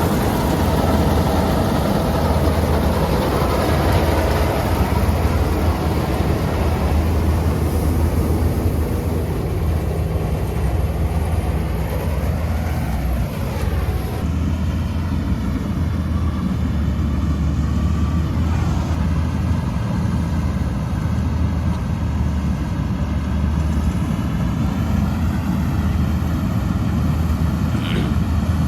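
Heavy diesel engine of a paddy-harvesting machine running steadily with a deep, even hum; the higher-pitched noise over it thins out about halfway through.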